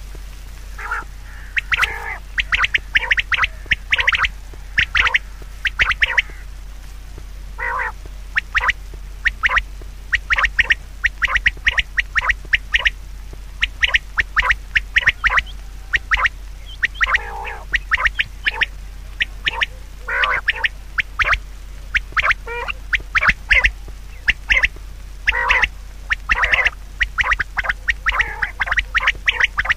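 Rapid runs of short, sharp animal calls, repeated in clusters, over a steady low hum.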